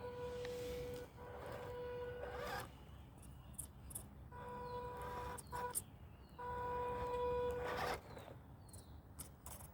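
Small electric motor and gearbox of an MN168 RC crawler whining steadily in four bursts of about one to two seconds as it drives, stopping between. Short scattered clicks fall in the pauses.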